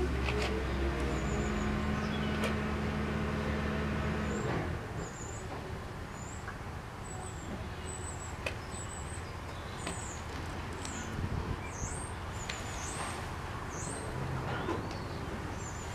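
A low, steady mechanical hum that stops about four and a half seconds in, followed by a small bird chirping repeatedly in short, high notes.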